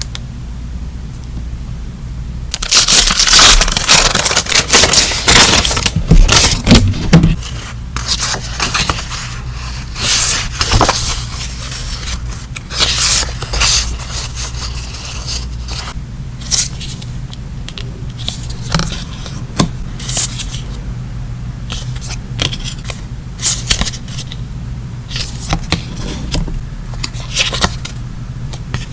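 Close-up crinkling and scraping of paper stationery being handled: a dense crackling rustle for a few seconds near the start, then scattered crisp crackles and short scrapes over a low steady hum.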